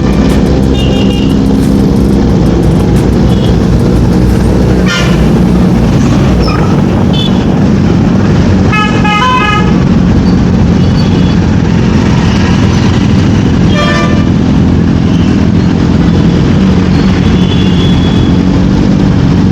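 Motorcycle engine running steadily while riding in traffic, with vehicle horns tooting several times, the longest about 9 seconds in.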